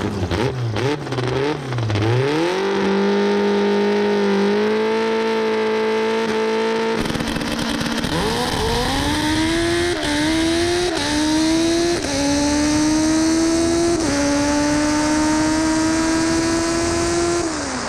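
High-revving race car engine, first held at steady high revs, then after a break about seven seconds in accelerating hard through the gears: the pitch climbs and drops sharply at each upshift, four times, before easing off near the end.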